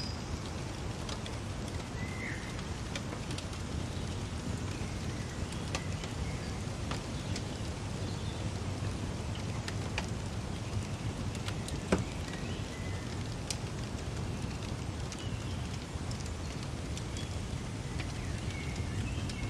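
Fireplace crackling over a steady low rumble, with scattered sharp pops, the loudest about twelve seconds in. Faint bird chirps come now and then.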